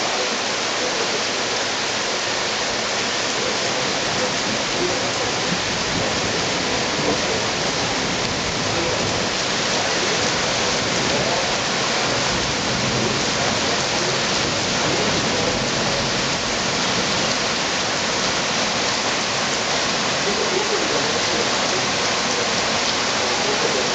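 Heavy thunderstorm rain pouring steadily, an even, unbroken hiss of drops falling on leaves and surfaces.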